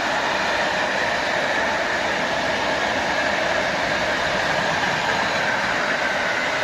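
Train hauled by an ET42 electric locomotive rolling steadily past, a continuous even rush of wheels on rails.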